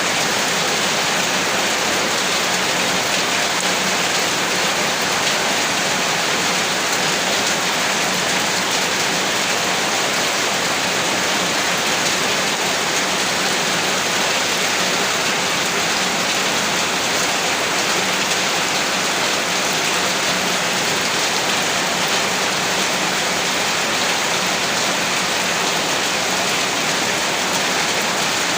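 Heavy rain falling steadily, an even, unbroken hiss of drops with no thunder or change in strength.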